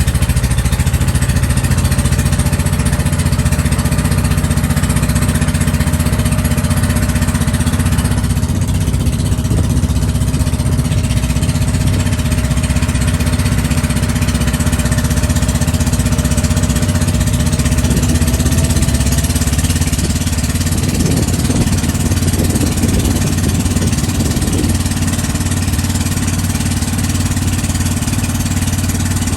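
Boat engine running steadily at an even speed, loud and unbroken, over a constant rushing noise.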